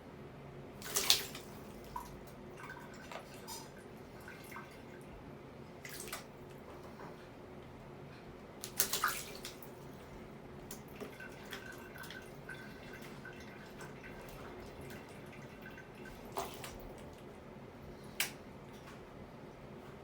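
Water dripping with a steady trickle as a Quaker parrot bathes, broken by about five short splashes from the bird, the loudest about nine seconds in.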